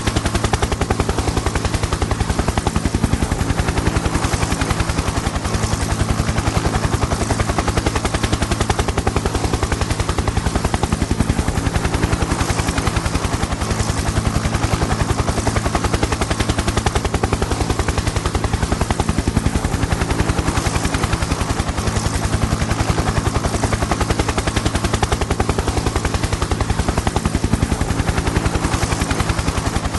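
Helicopter in flight: the rapid, even chop of the rotor blades over a steady engine drone, constant throughout.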